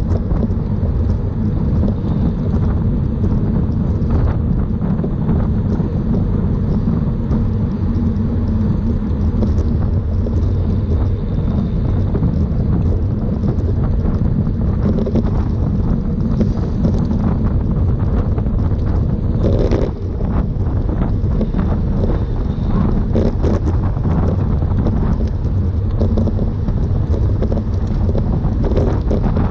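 Steady wind rushing over the microphone of a road bike riding at race speed, with scattered ticks and a brief rattle about twenty seconds in.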